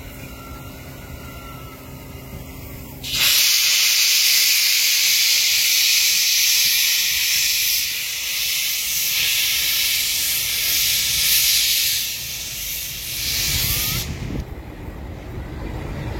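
A loud, steady hiss of escaping air starts suddenly about three seconds in, holds for about eleven seconds, then drops away.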